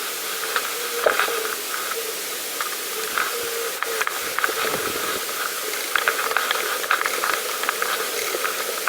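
Pedal bicycle being ridden along a path: a steady hiss of tyres and air rushing past, with light clicks and rattles from the bike.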